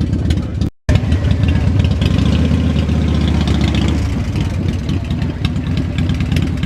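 Motorcycle engines idling and running close by, a dense pulsing engine sound that cuts out completely for a moment under a second in, then runs a little heavier for a couple of seconds before easing.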